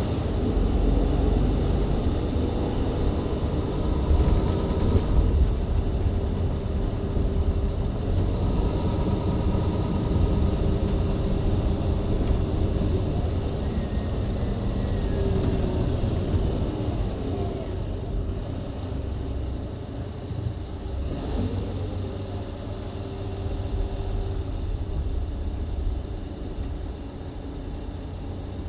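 Mercedes-Benz Citaro C2 LE MÜ Hybrid bus heard from inside while driving in town: the diesel engine and Voith automatic gearbox run under a heavy rumble of road noise. The engine pitch rises and falls a few times as the bus changes speed.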